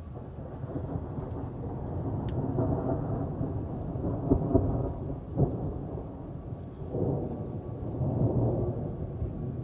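Rolling thunder rumbling in two long swells over steady rain, with a few sharper jolts about four to five and a half seconds in.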